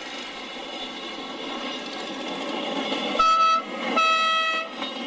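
A railway locomotive sounds two short blasts of its signal on one steady high note, over the rising noise of the moving train.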